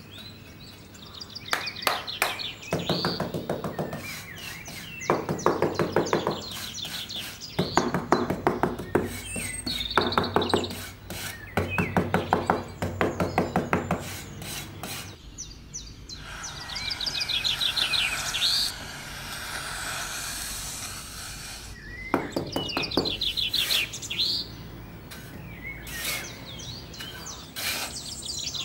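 Small hand trowel scraping and digging into sand, in repeated rasping strokes about a second long each, with birds chirping in the background.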